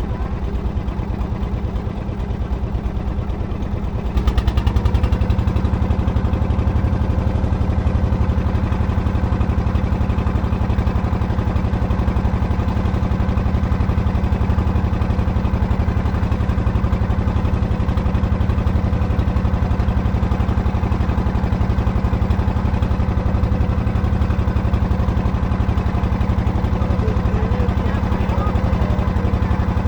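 Boat motor running steadily; it opens up and gets louder about four seconds in, then holds an even drone.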